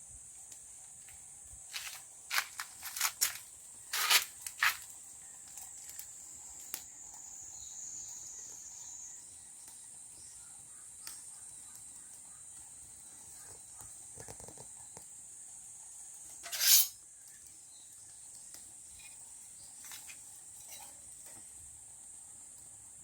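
A steady high-pitched insect drone, with a cluster of sharp clicks about two to five seconds in and one louder click near the end.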